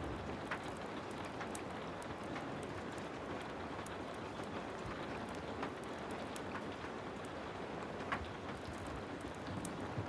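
Heavy rain falling in a steady, even hiss, with scattered sharp clicks and pops at irregular intervals.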